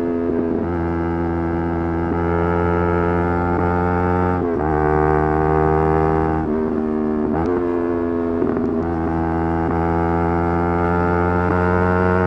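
Yamaha R3's 321 cc parallel-twin engine held at high revs under hard acceleration, a steady high-pitched drone broken by a few brief gear changes where the pitch dips and climbs again.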